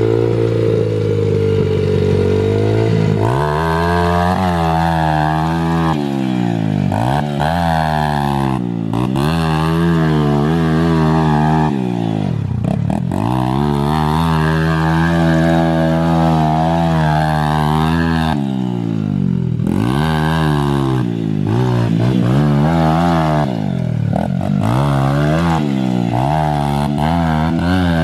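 Small dirt bike engine running and revving over and over, its pitch climbing and then falling back every few seconds.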